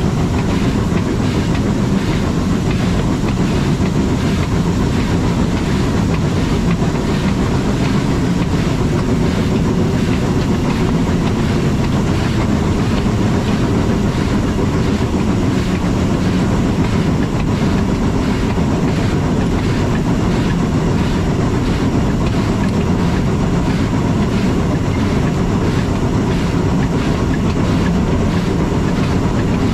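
Rack railway train running along rack-and-pinion track: a steady rumble and rattle of the running gear, with a fast, regular light clicking throughout.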